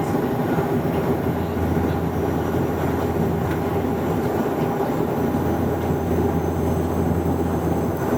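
Airliner engine drone and airflow heard inside the passenger cabin, a steady low hum.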